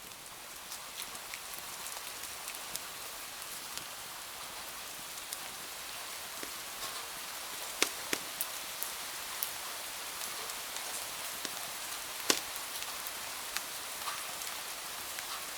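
Steady rain hiss, swelling up over the first couple of seconds, with scattered sharp pops and clicks on top, the loudest about eight and twelve seconds in.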